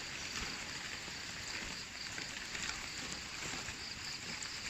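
Steady outdoor hiss with a thin, high, pulsing insect trill, typical of crickets.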